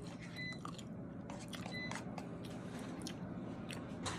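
Close-up chewing and biting: wet mouth clicks and smacks from someone eating sautéed vegetables, with a louder click near the end.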